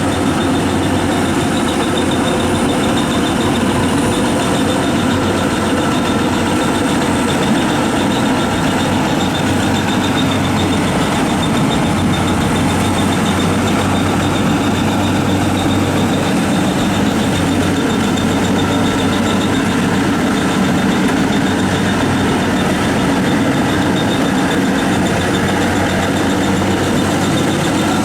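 Rice combine harvester's diesel engine and machinery running steadily and loudly, with no change in pace.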